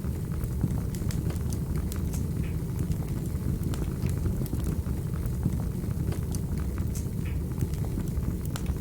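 Wood fire burning in a fireplace: irregular sharp crackles and pops scattered over a steady low rumble.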